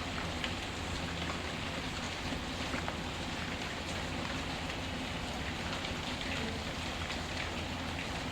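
Steady rain falling, with a few faint scattered crackles from a wood fire.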